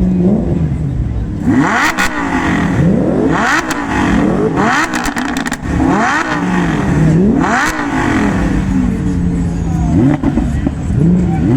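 Sports car exhaust revved hard again and again, the engine note sweeping up and falling back in quick blips, with a few sharp pops between revs.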